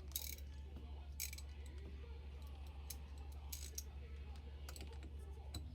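Scattered metallic clicks and taps of a wrench working the bolt of a truck battery's negative terminal clamp, about half a dozen at irregular intervals, over a steady low hum.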